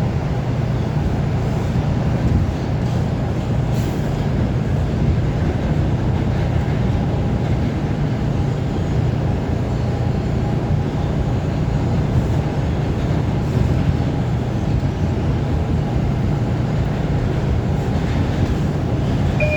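Subway train running between stations, heard from inside the car: a steady, even rumble of wheels on rails and motors.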